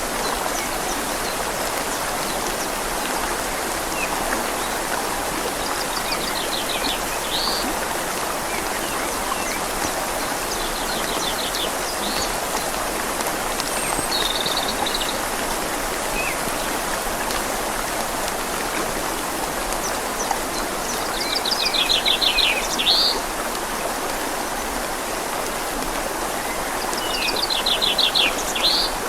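Steady rain and flowing river water making an even hiss. A small songbird sings short, rapid trilled phrases over it several times.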